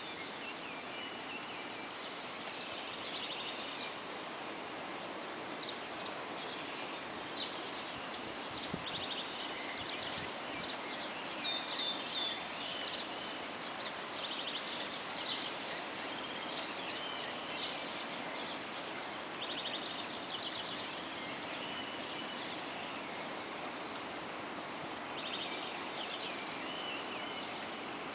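Birds chirping and calling in repeated short phrases over a steady background noise, with a loud flurry of rapid chirps about ten seconds in.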